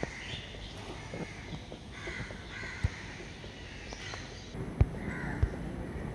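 Birds calling repeatedly, with a few sharp knocks in the second half.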